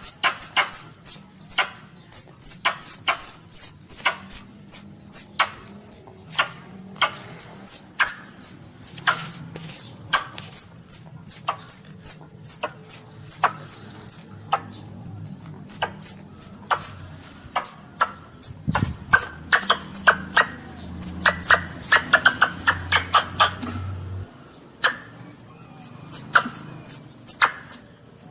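Baby Asian palm civet calls: a rapid series of short, high squeaks, each falling in pitch, about three a second, with a brief pause a little after the middle.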